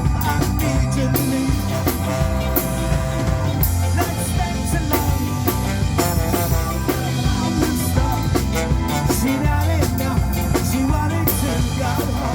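Rock band playing live: drum kit with cymbal hits, a heavy bass line and a bending lead melody over it.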